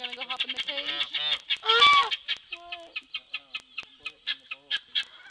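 Geese honking among other poultry calling: a fast run of short repeated calls, with one loud honk about two seconds in.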